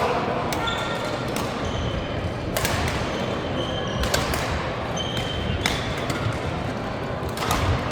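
Badminton rally: sharp racket strikes on the shuttlecock roughly every second, with short high shoe squeaks on the court floor over steady background noise.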